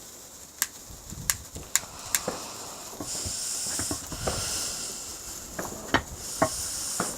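Small firework going off: sharp crackling pops, then a high fizzing hiss that starts about three seconds in and returns near the end.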